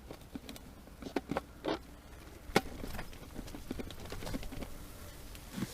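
Small clicks, knocks and rustles of fishing gear being handled, a few sharper taps among them, with a steady rushing noise that swells slightly from about halfway.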